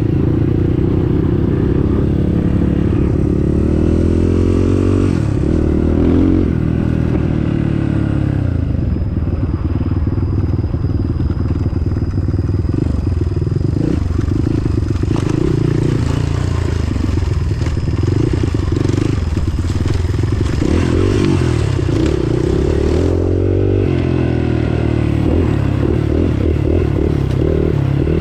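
Off-road trail motorcycle engine running under load, its pitch rising and falling with the throttle, with a couple of clear revs about a third of the way in and near the end, over rattling and scraping from the rough trail.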